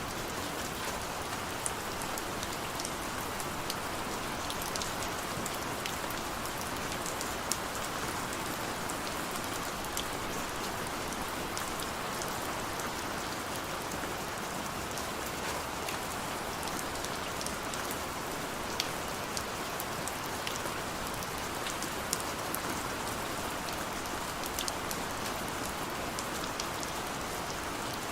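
Heavy rain falling steadily, with an even hiss and many sharp individual drops pattering on a surface.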